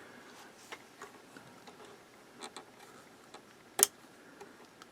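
Faint scattered clicks and taps of small parts being handled, with one sharper click about four seconds in.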